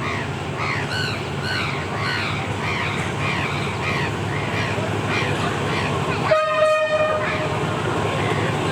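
A train runs with a steady low rumble, and its horn gives one short blast about six seconds in. Birds keep calling over it with many short, repeated calls.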